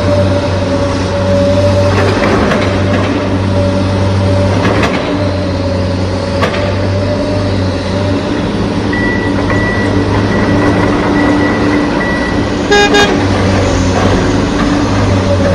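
Steady low truck engine drone, with a short horn toot a little before the end.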